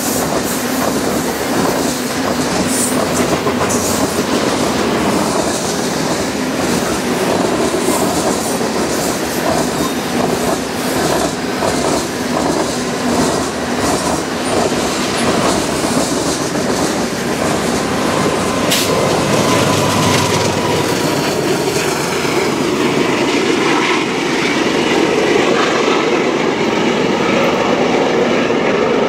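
A freight train's covered hopper cars rolling past at speed: a continuous loud rumble of steel wheels on rail, with rhythmic clickety-clack over the rail joints and occasional faint wheel squeal.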